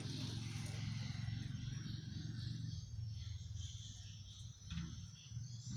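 Engine of a passing vehicle on a dirt road: a low, steady drone that fades away from about halfway through. A steady high hiss sits above it.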